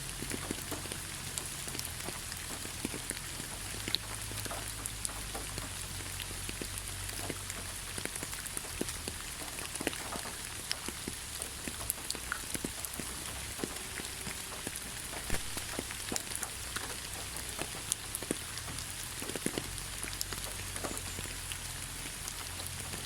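Steady rain: a constant hiss with many scattered sharp drop ticks.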